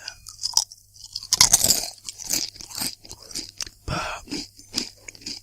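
Crisps being crunched and chewed close to the microphone, in quick irregular crunches. The loudest run of crunches comes about one and a half seconds in.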